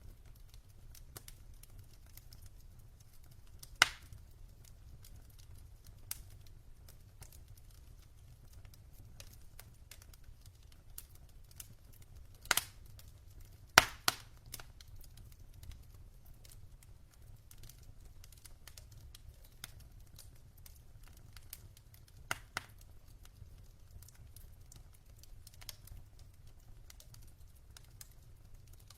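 Burning logs crackling: scattered small clicks and snaps, with four loud sharp pops (two close together near the middle), over a low steady rumble of the fire.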